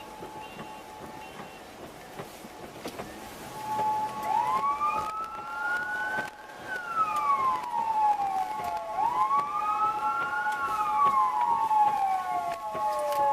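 A siren wailing, its pitch sweeping slowly up and then down twice, over a second, steady siren tone; both come in about three and a half seconds in. Before that, a faint series of short high beeps.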